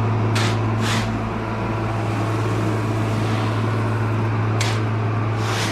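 A shovel scraping and scooping shelled corn on the floor of a grain bin, four short strokes, over a steady low machine hum that runs throughout.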